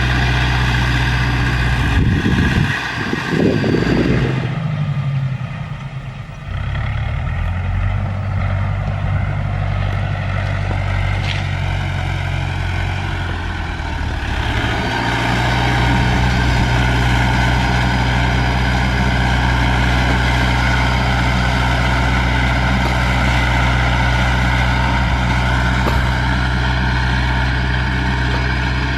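Diesel engine of a Landini tractor working as a dozer, pushing brush and soil. The engine runs steadily, briefly revs up and drops back about three seconds in, is quieter for a moment, then settles into a fuller, steady note from about halfway on.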